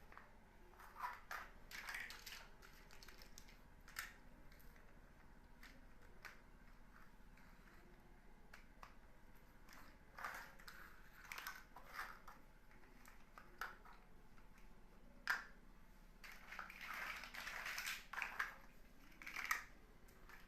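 Small plastic building bricks being handled and snapped together: scattered clicks and short bouts of rattling. There is a sharp click about fifteen seconds in and a longer bout of rattling near the end.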